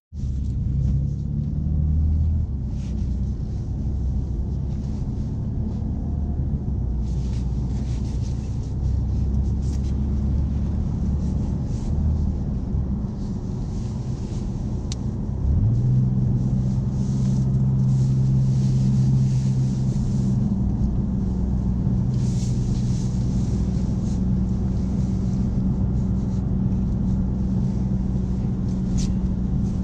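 BMW M4 Competition's twin-turbo straight-six heard from inside the cabin while driving, a steady low drone with tyre and road noise. About halfway in, the engine note steps up sharply in pitch and loudness, holds for a few seconds, then eases back.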